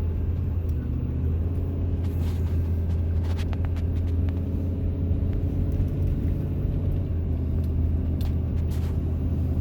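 Car engine running with a steady low hum, heard from inside the car.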